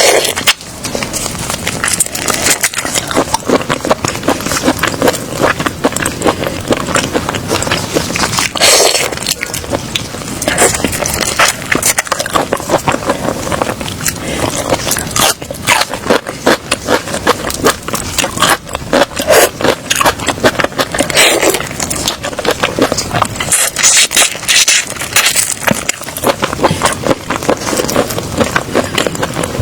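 Seafood being eaten: loud, dense crunching and crackling from biting and chewing, with several louder bursts of crackle.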